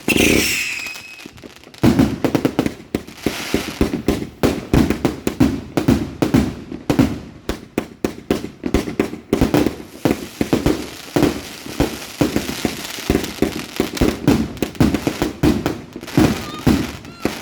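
200-shot fireworks cake firing in rapid succession. It opens with a short falling whistle, then after a brief pause about two seconds in, shot after shot follows several times a second without stopping.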